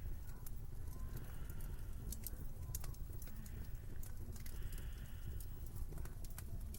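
Winter wind blowing in a steady low rumble, with frequent irregular sharp clicks and crackles over it.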